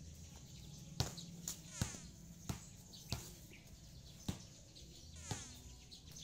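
Faint outdoor ambience: a bird gives a short falling call twice, among several sharp, isolated taps over a low steady hum.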